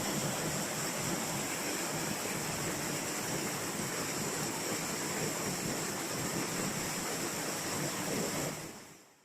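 Waterfall rushing steadily, fading out near the end.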